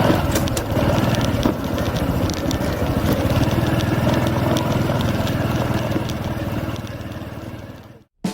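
Honda Super Cub 110's small single-cylinder four-stroke engine running steadily, fading out near the end.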